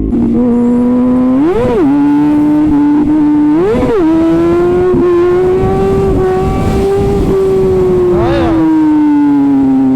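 Kawasaki ZX-6R inline-four through an Arrow titanium exhaust, running at a fairly steady pitch. Three quick throttle blips about two, four and eight and a half seconds in each shoot up in pitch and drop straight back.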